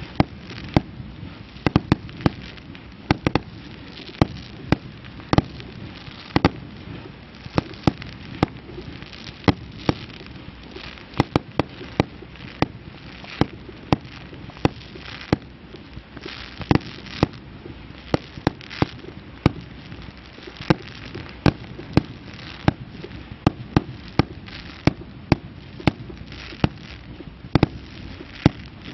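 Aerial fireworks display: an irregular run of sharp bangs from shells launching and bursting, about two a second, over a steady noisy background between the bangs.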